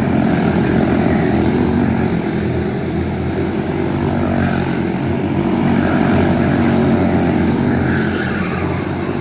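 Go-kart engine running under way, its note rising and falling slightly as the throttle changes.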